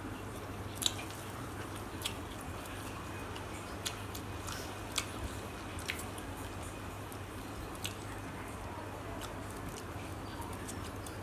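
A person chewing and biting food, with scattered sharp little clicks, over a steady background hiss and low hum.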